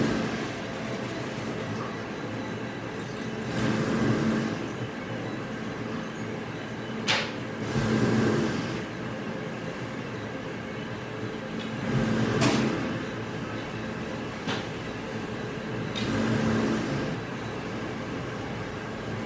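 Industrial machinery running in a repeating cycle, a swell of noise with a low hum about every four seconds, with a few sharp knocks, one about seven seconds in.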